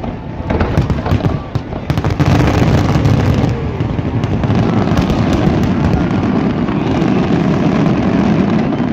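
Large aerial fireworks display: dense overlapping booms and crackling bursts, thickening into a continuous barrage about two seconds in.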